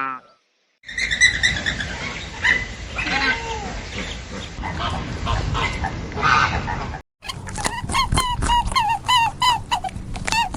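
Farm animals calling in two clips. First, scattered fowl calls over background noise. Then, after a sudden cut about seven seconds in, a fast, even run of short high calls, several a second, which sound like kittens mewing.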